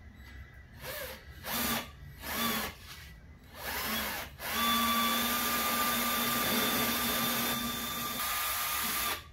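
Power drill boring the first bracket mounting hole through a jet ski's thick fiberglass gunnel. It is blipped in a few short spin-ups, then runs steadily for about four and a half seconds before cutting off suddenly near the end.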